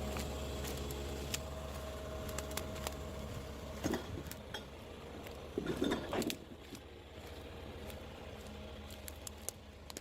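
Heavy forestry machine's diesel engine running low and steady, with scattered metallic clicks and a short louder clatter about six seconds in.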